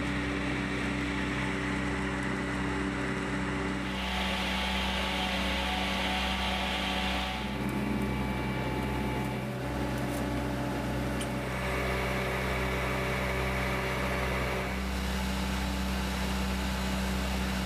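Engine of a road-rail catenary wiring truck running steadily, a continuous mechanical hum whose tone shifts abruptly every few seconds.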